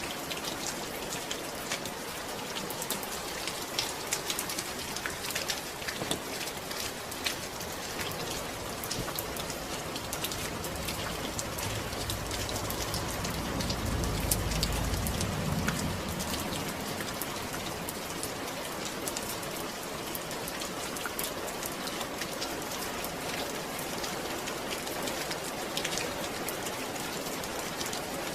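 Steady rain falling, a dense hiss with many small drop ticks. Around the middle a low rumble swells and fades over a few seconds.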